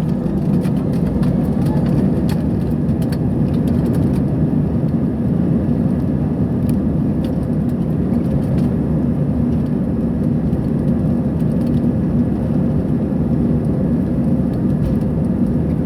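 Airliner cabin noise: the jet engines running steadily with a low rumble and faint hum, heard from inside the passenger cabin, with a few light clicks in the first few seconds.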